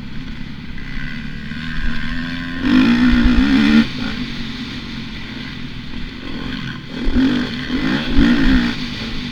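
Motocross dirt bike engine running, with the throttle opened hard twice: a short loud surge about three seconds in and another about seven seconds in, falling back to a steadier note between them.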